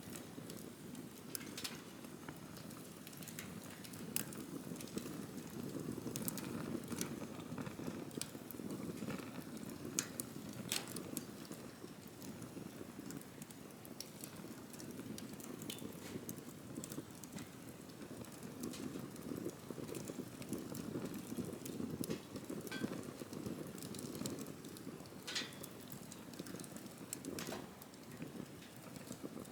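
Campfire burning, the flames giving a steady low rumble with sharp, irregular pops and crackles every second or so.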